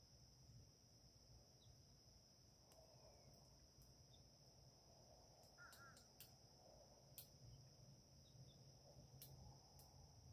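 Near silence: faint outdoor ambience with a steady high hiss, scattered faint ticks and one brief, faint bird call about six seconds in.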